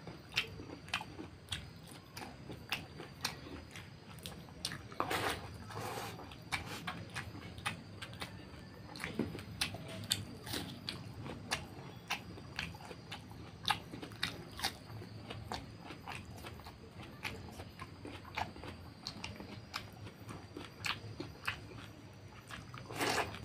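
Close-miked wet chewing and lip-smacking of a person eating fatty pork curry with rice, a dense run of irregular sharp mouth clicks several times a second.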